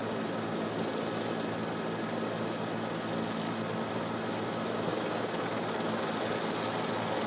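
Steady engine and rotor drone of a news helicopter over an open broadcast microphone, an even noise with a low hum and no sharp events.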